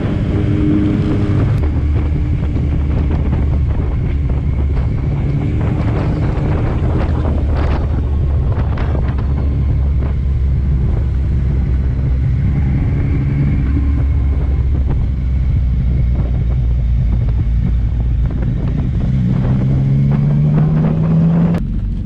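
Yamaha MT-09 motorcycle's inline three-cylinder engine running under way, with wind buffeting the microphone. The engine pulls up through the revs near the end, then the sound drops off suddenly.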